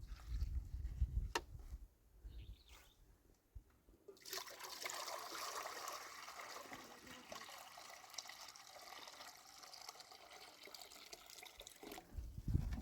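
Water pouring in a steady trickle, starting suddenly about four seconds in and stopping near the end, after a couple of seconds of low rumbling handling noise.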